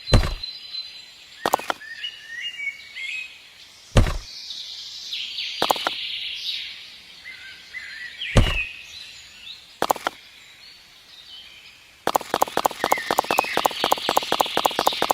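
Small birds chirping throughout, broken by single sharp knocks every one to three seconds. Near the end a fast, even run of clicks starts, about eight a second.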